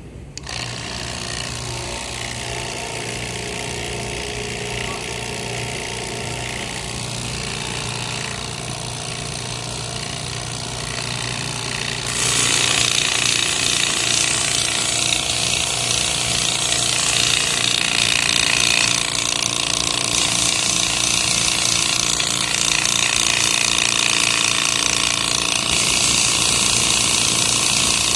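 Air-conditioner cleaning machine starting up and running with a steady, rattling mechanical hum. About twelve seconds in it grows louder as a hissing spray starts and keeps going.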